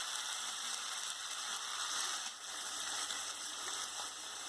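Steady sizzling of hot oil and ghee frying in a kadai.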